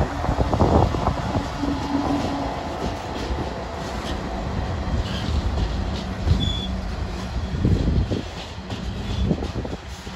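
Aurizon coal train passing: the rumble and knocking of its steel hopper-wagon wheels rolling over the rails behind the diesel locomotive, with a brief high squeal about six and a half seconds in.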